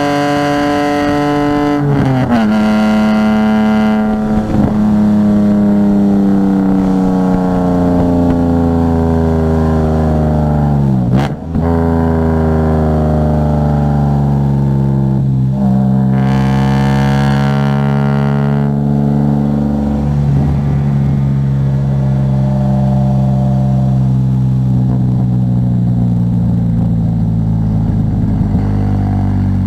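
Car engine running under load, its pitch gliding between a series of sharp drops as gears change and the throttle comes on and off, with the deepest drop about a third of the way in. A brief hiss rises over it near the middle.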